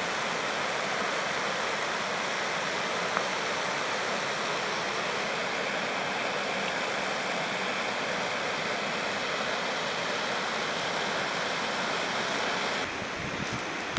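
Steady rushing of a stream or river, with a faint steady high tone over it; the rush drops away abruptly near the end.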